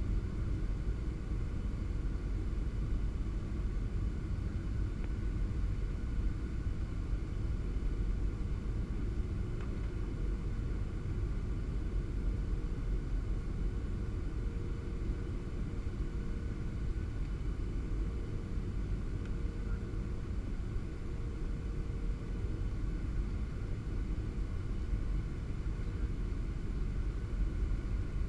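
Steady low rumble of a Boeing 737-700 in operation, its CFM56-7B jet engines and airflow heard on board, with faint steady engine tones above the rumble.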